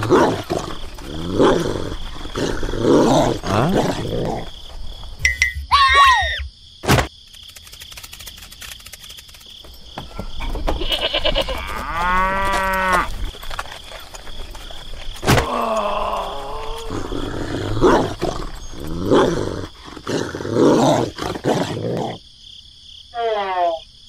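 A string of animal-call sound effects: short pitched calls at first, a falling glide about six seconds in, a long steady cattle-like moo near the middle, more calls after it, and quick rising chirps near the end.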